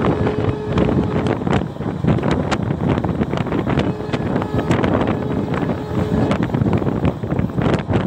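A passenger train running at speed, heard from on board: a steady rushing rumble of the coach on the track, with wind buffeting the microphone and scattered sharp knocks.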